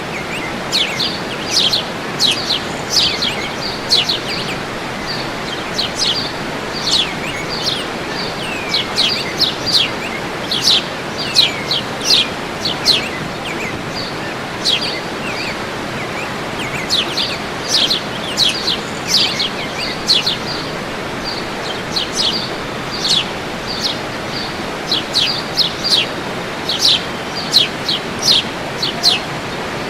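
Songbirds singing, with many quick downward-sweeping chirps and short high notes repeated throughout, over a steady rush of falling water.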